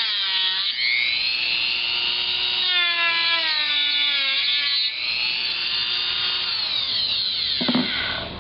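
Dremel rotary tool whining as it cuts into a laptop's plastic case. Its pitch dips and recovers as the bit bites, then falls away as it winds down near the end.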